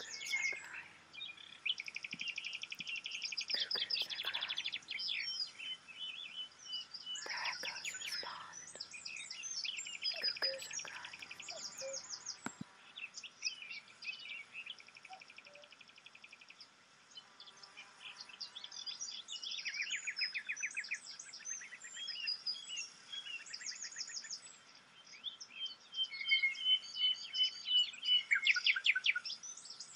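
Birdsong: several small birds chirping and trilling at once in fast, high runs, with a quieter spell in the middle and the busiest trilling near the end. A faint steady high tone runs underneath.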